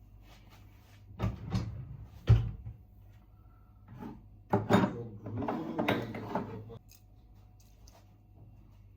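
A few sharp knocks, the loudest about two seconds in, then a few seconds of denser clattering, as of objects being handled and set down.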